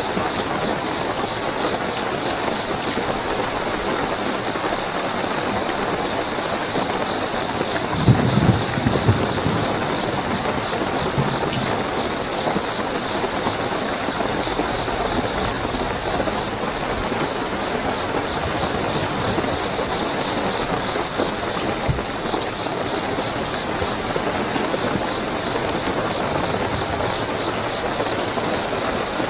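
Steady heavy rainfall with crickets chirping in a continuous high trill. About eight seconds in, a brief low rumble rises above the rain.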